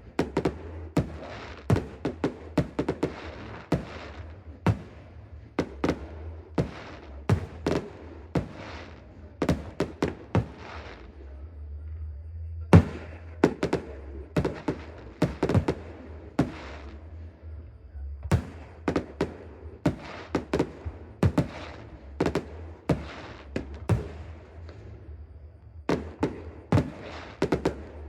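Fireworks going off in a rapid, irregular barrage of sharp bangs and crackles, several a second, with brief lulls and one loudest bang about halfway through.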